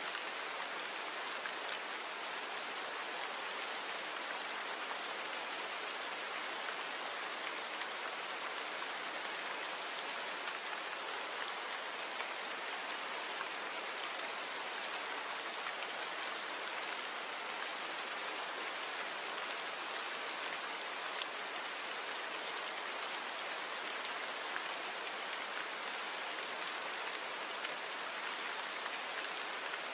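Steady rain falling: an even hiss with little low rumble and faint scattered ticks of individual drops.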